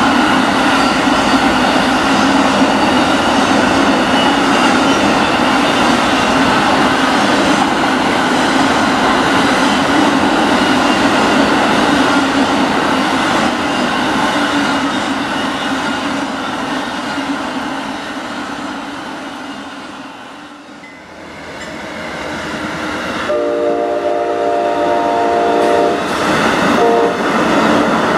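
A long passenger train passing close at speed: a steady rumble and rattle of wheels and cars, fading out about twenty seconds in. Then an approaching Amtrak passenger train's multi-chime locomotive horn sounds a long blast, a short one and another as its wheels run past.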